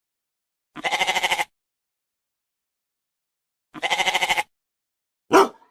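Two long bleats from a sheep or goat, each one wavering in a fast tremble, about three seconds apart. A short single bark from a dog comes near the end.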